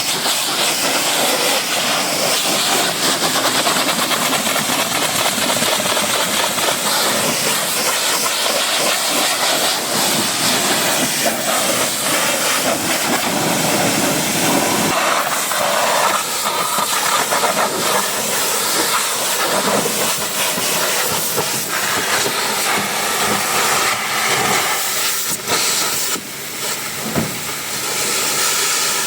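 A pressurised wash spray hissing steadily against a car, its sound changing about halfway through and dipping briefly near the end.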